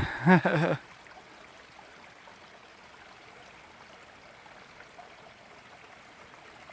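Small woodland stream flowing: a faint, steady rush of running water.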